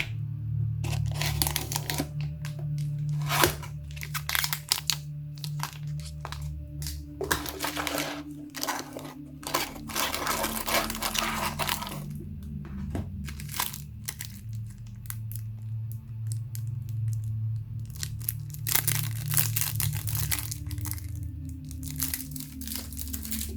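Trading-card packaging crinkling and tearing in irregular bursts, with small clicks, over a low, steady music bed. The longest stretches of crinkling come around a third of the way in and again near the end.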